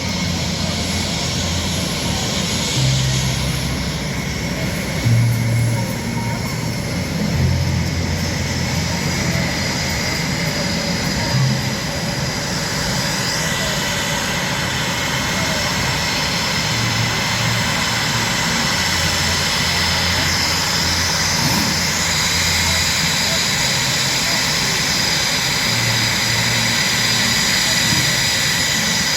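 Blue Angels F/A-18 Super Hornet jet engines idling on the flight line: a steady roar with a thin, high whine held throughout.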